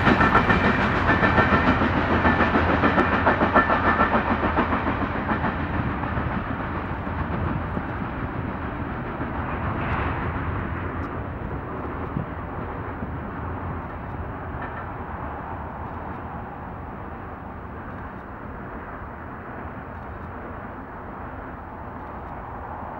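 Freight train of covered hopper cars rolling past, the steel wheels clattering over the rails. The last cars pass and the train pulls away, its rumble fading steadily.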